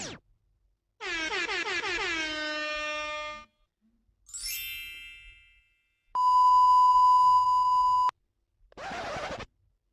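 A run of short meme sound effects separated by silent gaps: a pitched sound sliding down in pitch, a shorter high falling sound, then a loud steady beep lasting about two seconds, and near the end a brief hissy burst.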